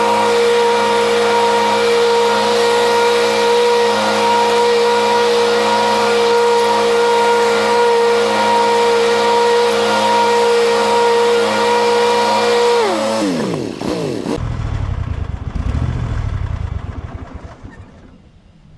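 Cub Cadet Ultima ZT1 zero-turn mower running steadily at full throttle with its freshly sharpened deck blades spinning, a steady whine over the engine. About 13 seconds in the pitch falls as the mower shuts down and winds to a stop, leaving a low rumble that fades.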